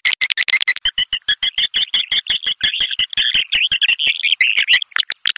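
Swiftlet lure call recording: a dense stream of rapid, high twittering chirps, many strokes a second, used in swiftlet farming to call swiftlets into a nest house.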